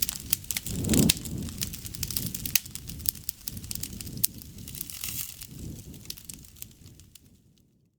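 Wood campfire crackling, with many sharp pops and snaps over a low rumble of flame and a louder flare about a second in. It fades down in the last second or so.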